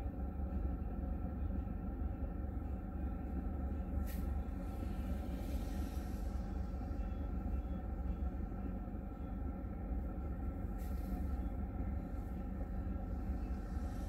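Steady low hum of a car idling, heard from inside the cabin, with two brief clicks.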